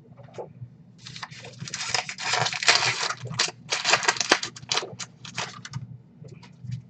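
Cardboard trading cards rustling and clicking as they are handled and flipped through. A dense run of crackly sliding and flicking starts about a second in and dies away after about five seconds.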